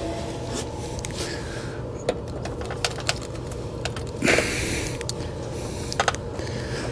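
Small clicks and rattles of hand tools and wiring being handled, with a brief scrape about four seconds in, over a steady low hum.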